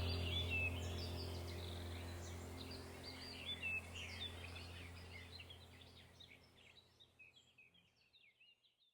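Small birds chirping and twittering in quick, busy bursts over a steady low hum. Everything fades out gradually to silence near the end.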